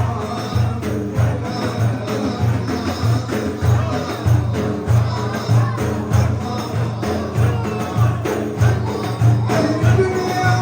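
Turkish Sufi ilahi, a devotional hymn: voices singing over a steady drum beat of about two beats a second.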